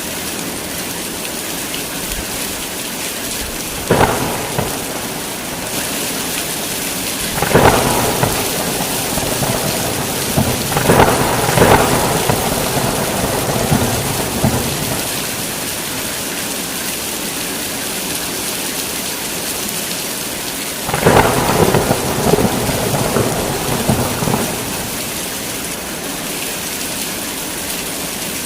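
Heavy steady rain with crackling thunder claps breaking in: a sharp crack about four seconds in, a longer rumbling series from about seven to twelve seconds, and another from about twenty-one to twenty-four seconds.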